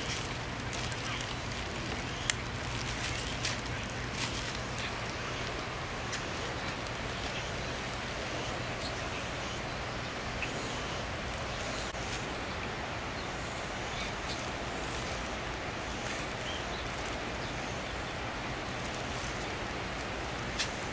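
Steady outdoor background noise with a few sharp clicks, the loudest about two seconds in and another near the end.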